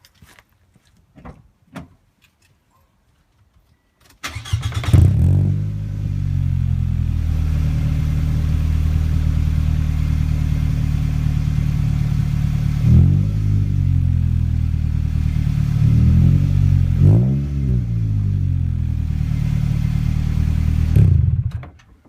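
Exhaust of a Toyota Noah's 2.0-litre four-cylinder engine through a replacement aftermarket muffler: the engine starts about four seconds in, flares, and settles to a steady idle. It is revved briefly once in the middle and twice more a little later, then switched off just before the end.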